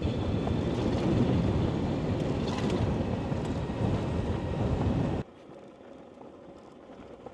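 Ride noise from an electric motorcycle on a gravel road: steady tyre rumble and wind noise with a faint high motor whine. It cuts off suddenly about five seconds in, leaving a much quieter hiss.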